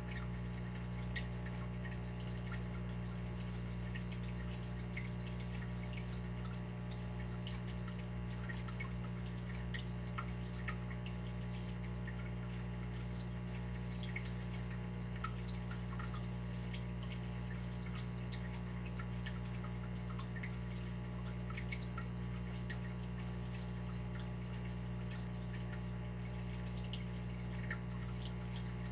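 Water dripping and trickling, many small drops scattered at random over a steady low rumble.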